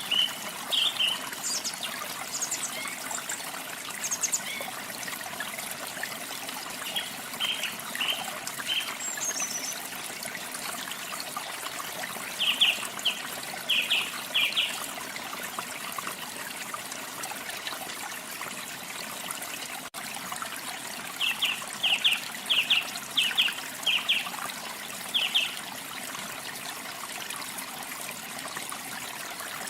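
Steady running water of a waterfall with songbirds singing over it: scattered short high chirps and whistles, with two quick runs of repeated chirps, one about 12 seconds in and one about 21 seconds in.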